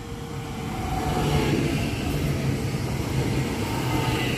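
Electric multiple-unit passenger train passing close by. It gets louder over the first second or so as it draws level, then runs on with a steady rolling noise and a whine from its electric drive that shifts in pitch.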